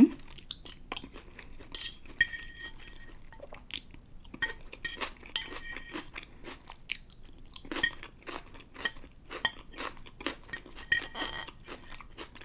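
Close-up chewing of pancit bihon rice noodles with crisp stir-fried vegetables: irregular wet crunches and mouth clicks. Now and then cutlery clinks on the plate.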